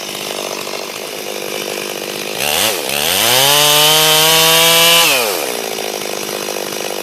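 Stihl 440 two-stroke chainsaw idling, blipped once, then revved up and held at high speed for about two seconds before dropping back to idle.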